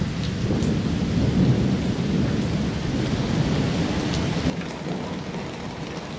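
Steady rain falling on a stretched tarp, with a low rumble underneath that drops away about four and a half seconds in.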